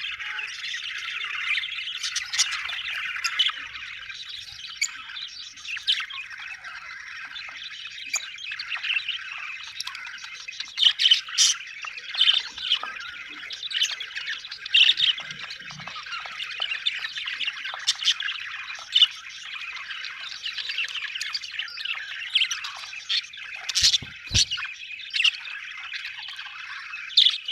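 A flock of budgerigars chattering continuously, a dense warble of chirps with frequent sharper, louder calls standing out. A brief low knock sounds once, late on.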